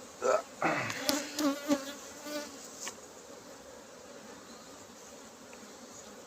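Honeybees buzzing around an open hive brood box, a colony stirred up by the inspection, with a few brief louder sounds over the first three seconds before the buzzing goes on steadily.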